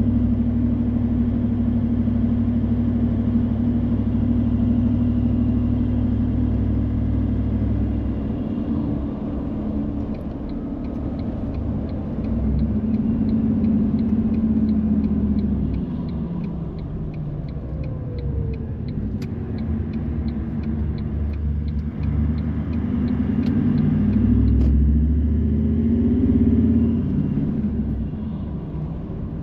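Car running, heard from inside: a steady engine and road rumble that eases and turns uneven about eight seconds in as the car slows. From about ten seconds on comes a regular light ticking, about two a second, typical of a turn-signal indicator.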